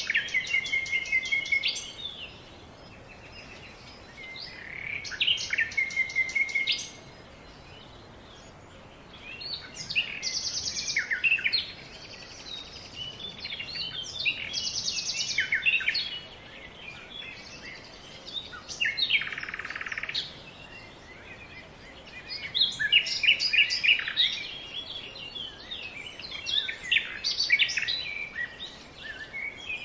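Songbirds singing: phrases of quick chirps and trills every few seconds, with short pauses between them.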